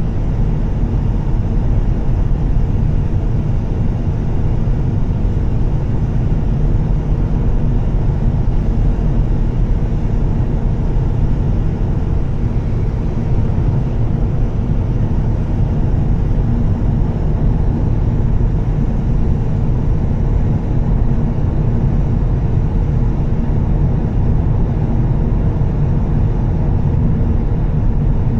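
Volvo S60 T6's turbocharged straight-six with a Heico aftermarket exhaust, cruising at a steady speed. A constant low drone blends with road noise, and the revs don't change.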